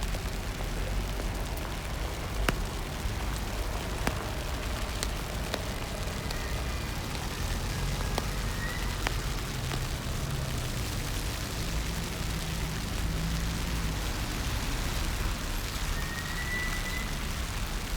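Rain falling on a city street, with a steady low rumble of traffic and scattered sharp taps; a couple of faint short squeaks come around the middle and near the end.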